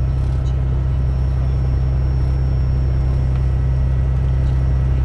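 Piston engine of a Cessna 210K, a six-cylinder Continental, running with a steady low drone.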